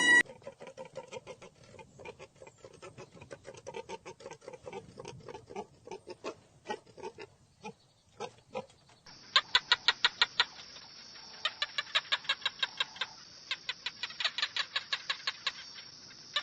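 Chickens clucking in quick, irregular calls, then from about nine seconds in a fast, high-pitched chirping trill that comes in several runs with short breaks.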